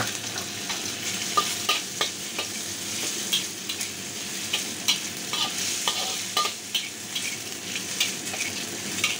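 Diced ham sizzling in hot oil in a wok, while a metal spatula stirs it, scraping and clicking against the wok again and again, with a few short metallic rings.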